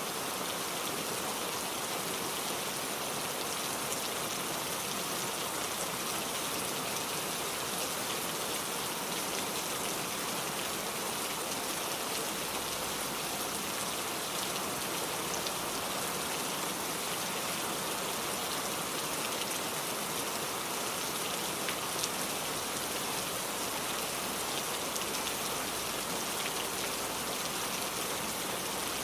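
Steady rainfall pattering on surfaces, with individual drops ticking now and then.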